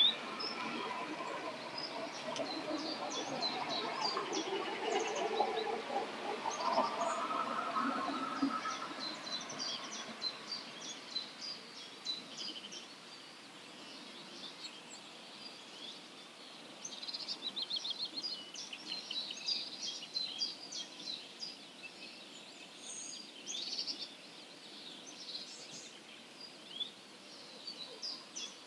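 Dawn chorus of wild songbirds: many short chirps and song phrases overlapping, with a rapid trill about two-thirds of the way through. For roughly the first third, lower-pitched calls sound beneath the birdsong and then fade.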